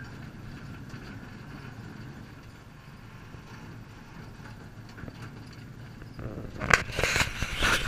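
Narrow-gauge park train rolling along the track with a steady low rumble. Near the end comes a loud run of clattering knocks.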